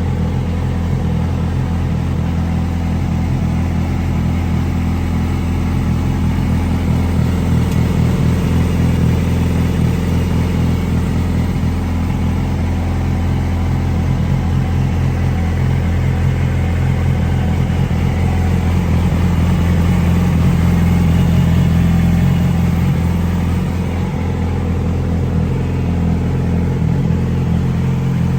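2007 Yamaha YZF-R6's inline-four engine idling steadily through its GYTR exhaust, growing a little louder about two-thirds of the way through.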